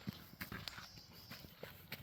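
A run of light, irregular clicks and knocks, several a second.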